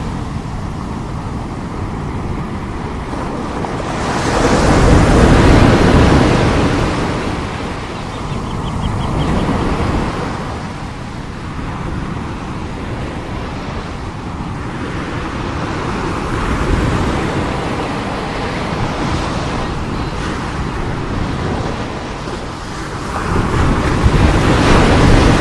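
Heavy sea waves crashing and washing in, the surf swelling loudest about five seconds in and again near the end.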